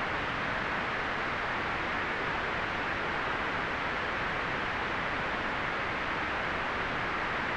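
Steady synthetic white noise for relaxation or sleep: an even hiss without change, strongest in the upper middle and rolled off in the highest treble.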